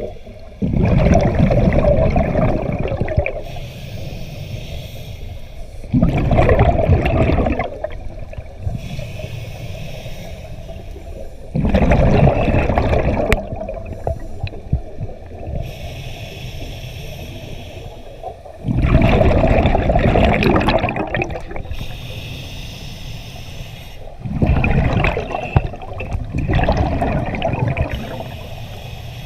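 A scuba diver's breathing through the regulator underwater: five bursts of exhaled bubbles about every five to seven seconds, each lasting about two seconds, with a softer inhale hiss between them.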